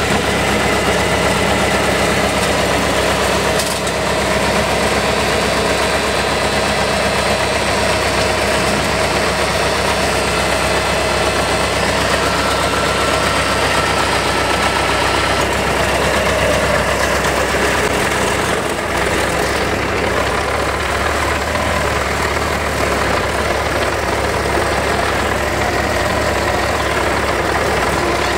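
Tractor diesel engine running steadily, its note shifting about two-thirds of the way through.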